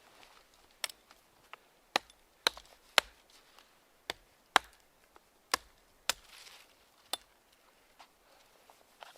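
Wood being chopped: about ten sharp strikes at uneven intervals.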